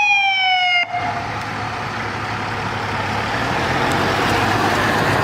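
Fire truck siren sliding down in pitch for about the first second, then cutting off abruptly. Heavy vehicle engine and road noise follows, slowly growing louder.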